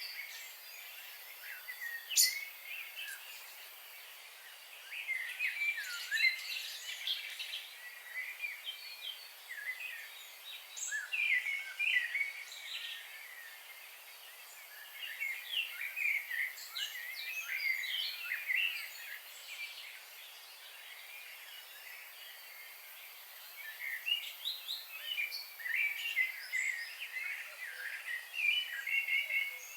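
Several wild birds chirping and singing in overlapping bouts of quick, high notes, with short lulls between, over a steady faint hiss. A single sharp click about two seconds in.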